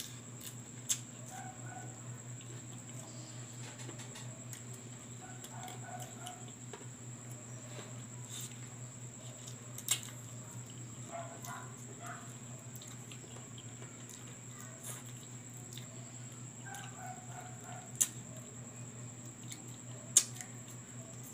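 Close-up chewing and lip-smacking of someone eating roasted chicken by hand, gnawing meat off the pieces, with a few sharp clicks. A steady low hum runs underneath.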